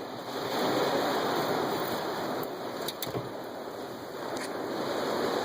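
Heavy rain falling hard on a car, heard from inside the cabin with the rear windows open: a steady rush with a few faint ticks, swelling slightly near the end.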